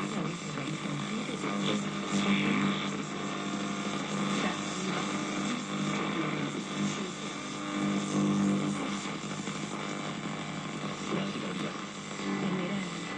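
Restored vintage valve radio hissing and droning with interference noise as it is tuned between stations, a steady low hum underneath. The owner puts the noise down to radio-frequency interference from electrical pollution.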